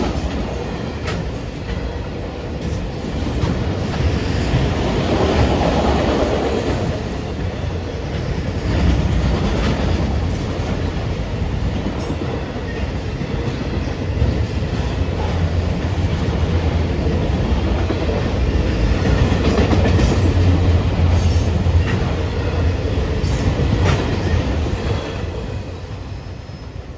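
Train cars rolling past, a steady rumble with wheels clicking over the rail joints, fading away near the end as the train clears.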